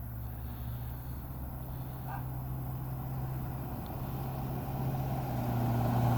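Steady low engine hum of a road vehicle, growing slowly louder toward the end.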